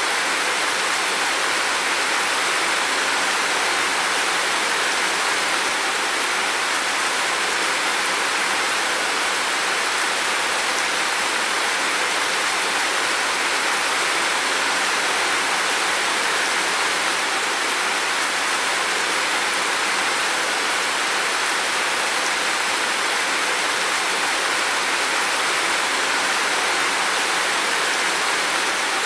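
Heavy rain falling in a steady, unbroken rush.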